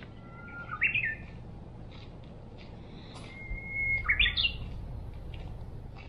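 A songbird singing two phrases, each a long held whistle that breaks into a short rising flourish, the first about a second in and the second about three seconds later, over a low steady rumble.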